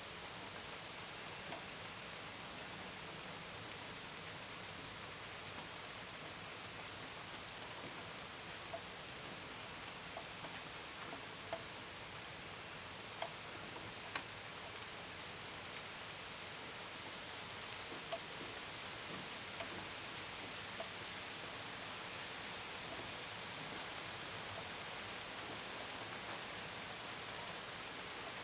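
Steady gentle rain with scattered drops ticking sharply against a window and gutters. Crickets chirp throughout in a continuous high pulsing trill.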